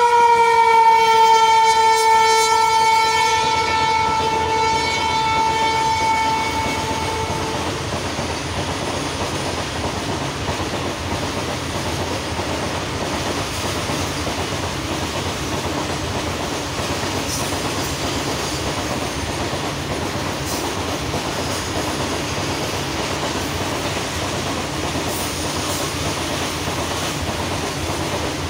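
Alstom WAG-12 electric locomotive's horn sounding one long blast, its pitch sagging slightly as it passes, ending about seven seconds in. This is followed by the steady running noise of a long rake of open-top freight wagons going past, with the occasional click of wheels over rail joints.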